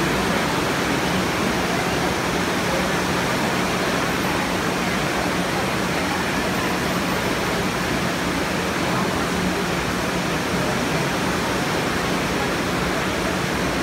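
Heavy rain pouring down, a dense, steady hiss that holds an even level throughout.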